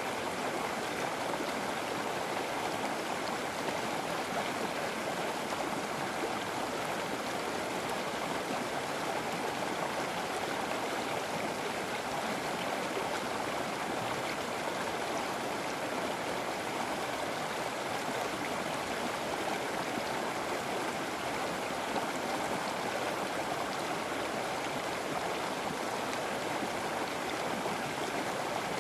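River water flowing and splashing over rocks: a steady, unbroken rush.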